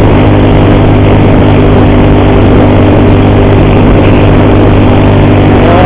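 Motorcycle engine running at a steady, gentle road speed, heard from the bike with rushing wind. The rider, riding slowly out of fear, blames a horrible noise on the cam chain. Near the end there is a short tone that rises and then falls.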